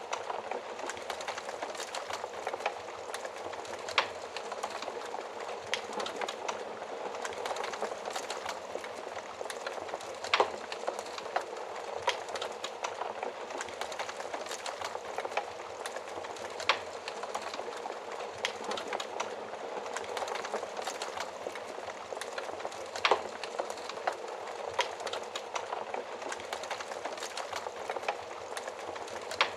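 Wood fire crackling steadily inside an oven, with a dense run of small crackles and a few louder sharp pops spread through.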